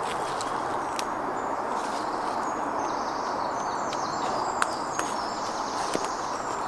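Woodland ambience: a steady hiss, with small birds chirping faintly around the middle and a few sharp clicks.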